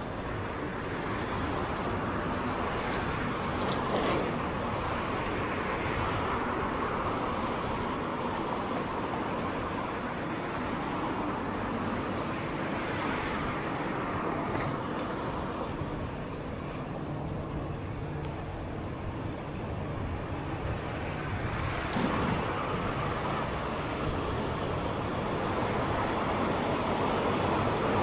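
Road traffic going by: a steady wash of vehicle noise that swells and fades as cars pass, with a couple of brief sharp sounds.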